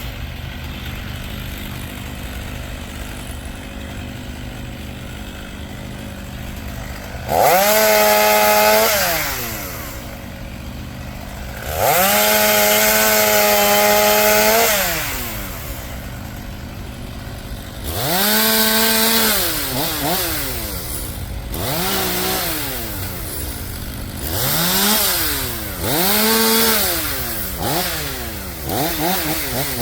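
Two-stroke chainsaw idling between repeated bursts of full throttle, each rev rising, holding for one to three seconds and dropping back, as it cuts through bur oak limbs. The longest cuts come about a third of the way in and just before halfway, with shorter revs in the second half.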